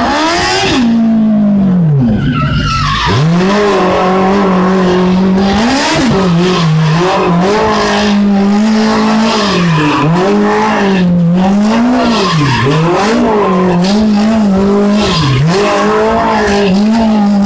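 Smart car's engine revved hard and held against a high, steady pitch, dropping briefly and climbing back every second or two, with tyres squealing and skidding through a stunt drift.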